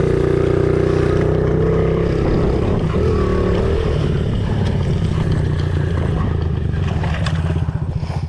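Honda CRF50 pit bike's small air-cooled single-cylinder four-stroke engine running close by at a steady speed, its pitch wavering briefly about three seconds in.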